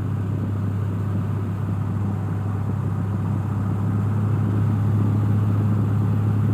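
Cessna 172's piston engine and propeller droning steadily in the cockpit at reduced pattern power, with a strong low hum, growing slightly louder toward the end.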